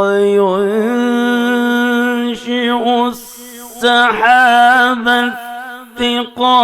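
A man's voice chanting Quran recitation in melodic tajweed style, drawing out long ornamented notes, with a short pause for breath about three seconds in.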